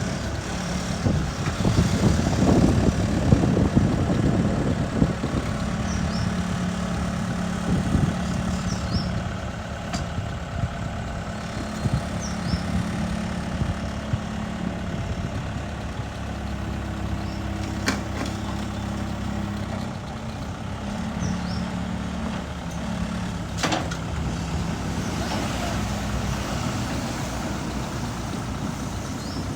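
Bobcat S450 skid steer loader's diesel engine running, louder and busier for a few seconds near the start, its pitch shifting up and down with the throttle. A few sharp knocks come through along the way.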